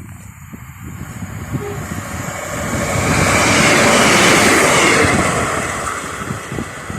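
A train passing at speed, growing louder to a peak around the middle and then fading away.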